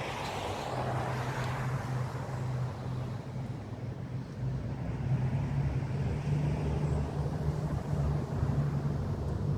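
Diesel locomotive engine running with a steady low drone, getting steadily louder as it approaches.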